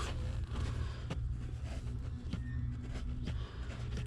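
A few light clicks and knocks, about a second apart, from gear-shift cable parts being handled and fitted, over a steady low hum.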